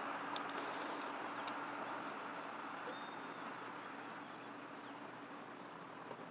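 Outdoor background noise: a steady rushing sound that slowly fades, with a few short, high bird chirps about two to three seconds in.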